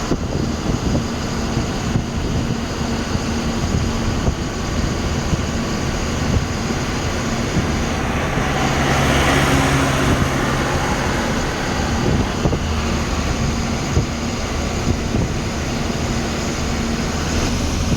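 Truck engine running steadily under wind and road noise, with another vehicle passing about eight seconds in, louder for a few seconds.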